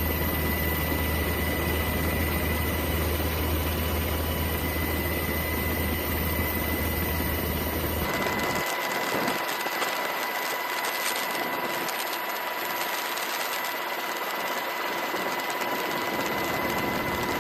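Steady engine noise with a constant high whine over a low rumble. About eight seconds in the rumble drops away suddenly, leaving a brighter hiss with the whine still there.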